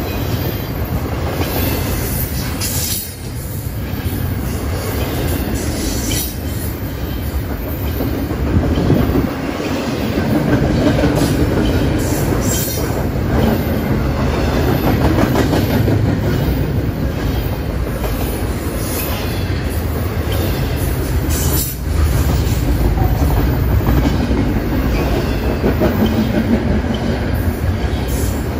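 Double-stack container well cars of a long BNSF freight train rolling past close by. The wheels rumble and clatter on the rails without let-up, with sharp clanks every few seconds.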